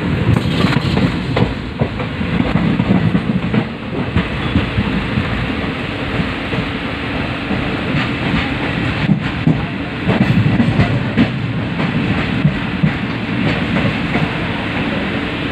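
Passenger train running along the line, heard from an open window of a coach: a steady rumble and rattle of wheels on the rails, with occasional sharp clicks.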